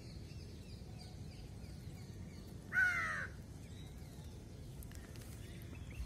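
A bird gives one loud, harsh call lasting about half a second, about three seconds in, over faint high chirping of small birds.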